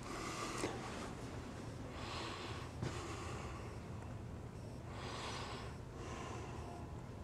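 Breathing close to the microphone, a soft breath about every two to three seconds, over a steady low hum.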